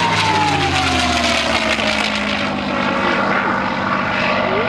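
Propeller-driven display aircraft flying past, its engine note falling steadily in pitch over the first couple of seconds.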